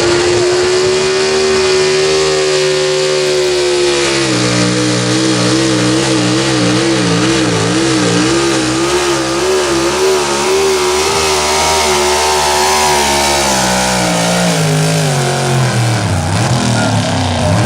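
Super stock 4x4 pulling truck's engine running flat out on a pull: a high, steady note for about four seconds, then a lower note that wavers up and down for several seconds before falling away as the engine winds down near the end.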